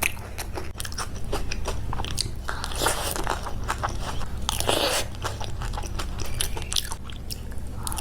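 Close-up crunching and chewing of papdi chaat, the crisp fried papdi wafers cracking between the teeth in irregular bites, over a steady low hum.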